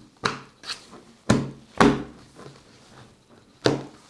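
About five sharp plastic knocks and clicks, two of them louder around the middle, as a plug-in ceramic fan heater is handled and pushed into a wall socket.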